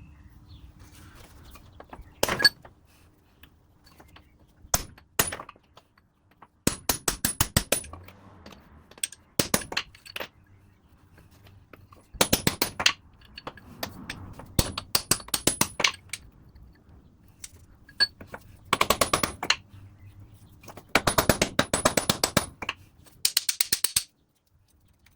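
Heavy hammer striking a drive-shaft universal joint yoke, ringing metal blows in quick bursts of several at a time, driving the U-joint bearing caps out of the yoke. The blows stop about a second before the end.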